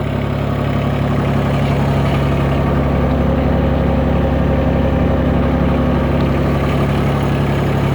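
Mahindra eMAX 20 tractor's three-cylinder Yanmar diesel engine running steadily.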